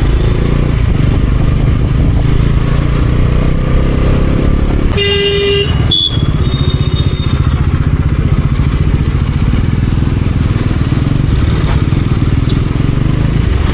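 Bajaj Pulsar NS400Z single-cylinder engine and wind rumble while riding, steady throughout. A vehicle horn honks once for about half a second about five seconds in, followed by a sharp click.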